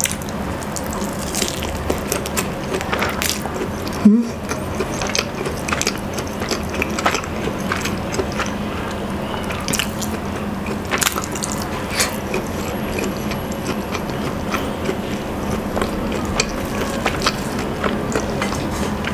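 Close-miked chewing of soft roast chicken: continual small mouth clicks and smacks, with one sharp click about four seconds in.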